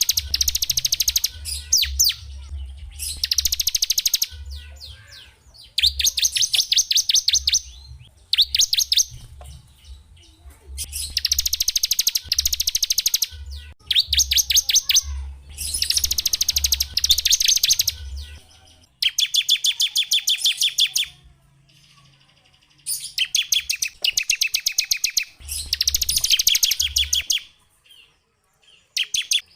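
A small songbird singing in repeated bursts of very rapid, high trilled notes, each phrase about one to two seconds long with short pauses between.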